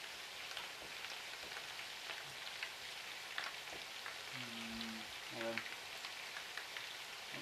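Meatballs frying in a pan: a steady sizzle with many small crackling pops of hot fat. A short, low hummed voice sounds about two-thirds of the way through.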